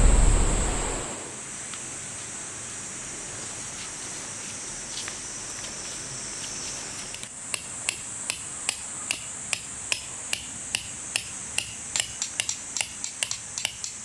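Music fades out, then a steady high hiss and thin whine. From about halfway on come sharp, regular knocks like a hammer striking, about two a second and getting a little quicker.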